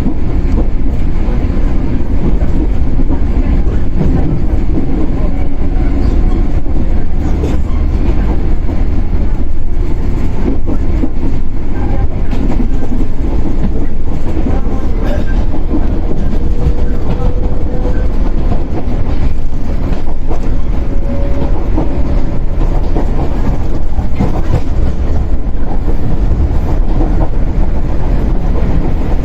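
Running sound inside a 115-series electric multiple unit motor car (KuMoHa 115-1013): a steady, loud rumble of motors and wheels on the rail, with occasional clacks from rail joints. A faint, slightly rising whine comes in about halfway through.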